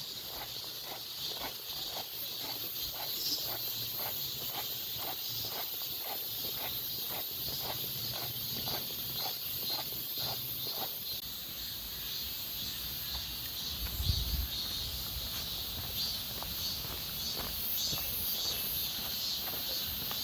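Steady outdoor chorus of cicadas and crickets, a continuous high shrill hiss. Over it, footsteps walk at about two steps a second and stop about halfway through; a low thud comes a few seconds later.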